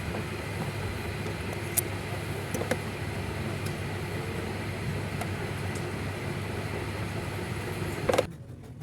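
Car engine idling steadily, with a few light clicks over it; the sound cuts off suddenly near the end.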